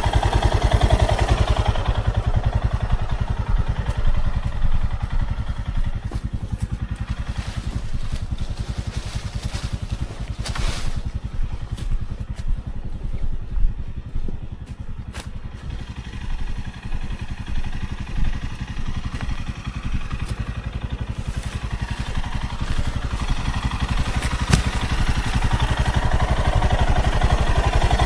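A vehicle engine running on the move with road noise. It eases off and gets quieter around the middle, then builds up again toward the end.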